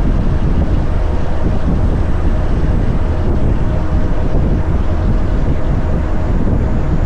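Heavy-haul tractor-trailer running under load, a steady low rumble of engine and road noise with a faint steady whine.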